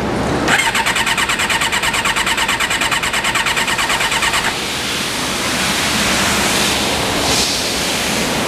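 Electric starter cranking the 2007 Suzuki GSX-R600's engine in rapid, even pulses with a whine, for about four seconds, then stopping. A steady rushing noise continues afterwards.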